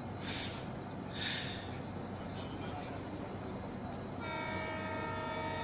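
Two short hissing bursts, then about four seconds in a locomotive's air horn starts sounding a steady chord and holds.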